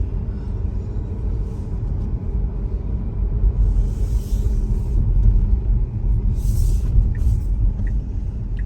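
Steady low road and tyre rumble heard inside the cabin of an electric Tesla Model Y driving on snow-covered roads, with two brief hissing swells midway. Faint regular ticks come about every 0.7 seconds near the end.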